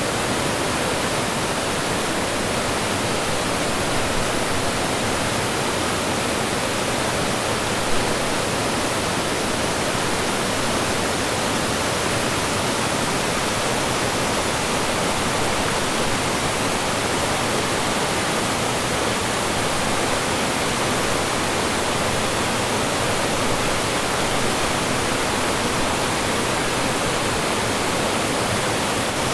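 Mountain stream water rushing and splashing over rocks and small falls, a steady full hiss.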